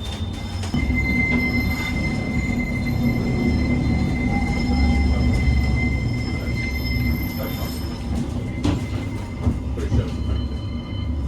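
West Midlands Metro tram running, heard from inside the car: a low rolling rumble with a steady high-pitched tone that sets in about a second in.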